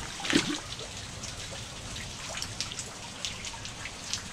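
Rain falling on the river and the boat: a steady hiss with many scattered drop taps. About half a second in there is a louder splash as a mangrove jack is let go at the water's surface.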